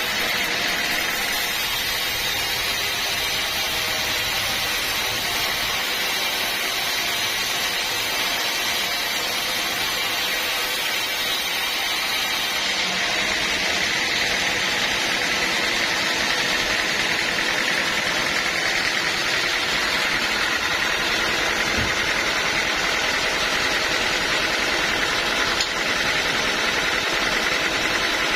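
Sawmill machinery running steadily, a continuous mechanical noise with a constant high-pitched tone in it.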